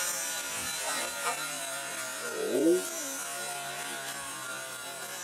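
Small nitro RC monster truck engine buzzing at a steady pitch, with a quick rev up and back down about two and a half seconds in.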